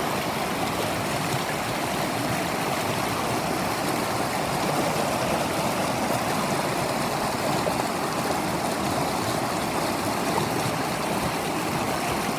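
Water of a waterfall and stream rushing, a steady, even wash of noise.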